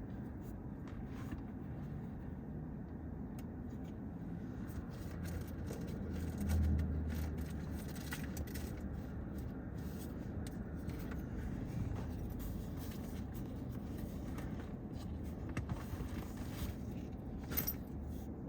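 Car engines running in street traffic: a steady low rumble that swells louder for about a second, roughly six seconds in, with scattered light clicks.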